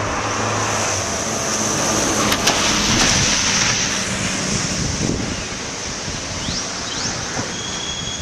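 Hurricane wind making a steady rushing noise, swelling to its loudest about three seconds in. A low engine hum runs under it in the first second.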